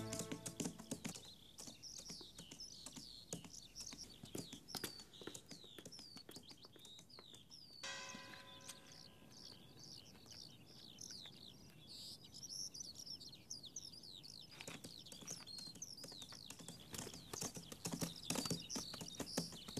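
Birds chirping in many short falling calls, over irregular horse hoofbeats that grow busier near the end.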